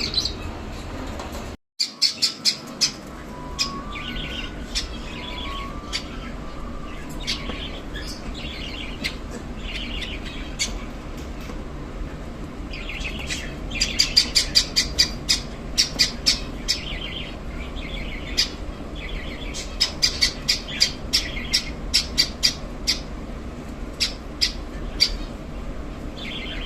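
Small birds chirping and calling over and over, short sharp notes that come in quick runs of several chirps at a time.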